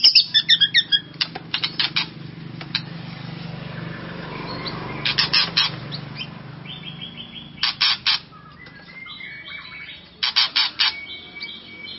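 White-rumped shama (murai batu) calling in short bursts of rapid clicking chatter, about four bursts, with a few brief whistled notes between them. This is an excited bird, the kind of lure recording played to fire up a caged shama.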